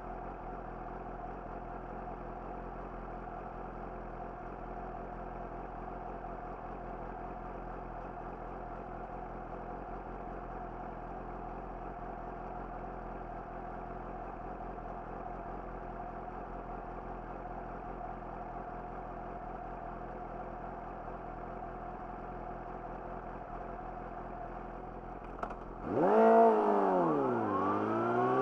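Yamaha YZF-R6 inline-four with an Akrapovic slip-on exhaust idling steadily. About 26 seconds in, the rider opens the throttle: the engine revs up sharply and louder, its pitch sags, then it climbs again.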